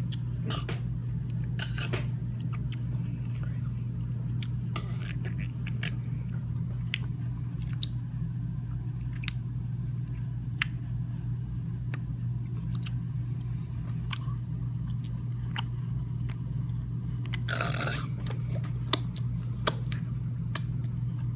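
Close-up chewing and biting: a person's mouth making many short wet clicks and crunches while eating. A steady low hum runs underneath, and a longer breathy rustle comes a few seconds before the end.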